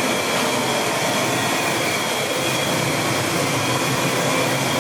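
A steady rushing noise with a faint, even high whine running through it.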